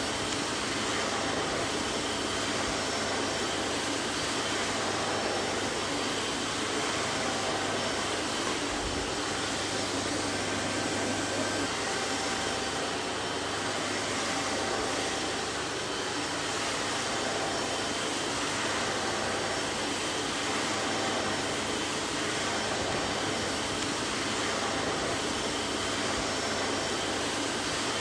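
Vacuum cleaner running steadily: an even rushing hiss of air with a faint hum under it, unchanging in level.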